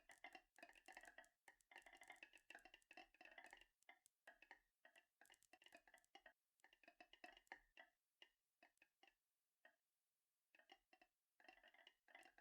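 Faint, rapid, irregular clicking and rattling of marbles rolling along a marble run track, each click with a slight ringing tone. It drops to near silence for about two seconds about two-thirds of the way through, then picks up again.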